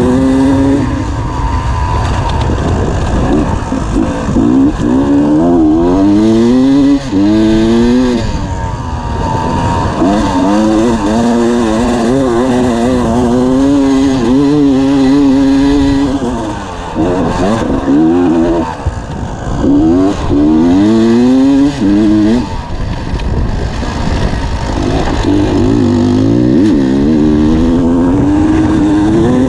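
Dirt bike engine ridden hard, recorded on the bike: it climbs in pitch through each gear and drops back at every shift, with a few brief throttle lifts in the middle and long stretches held at high revs near the end.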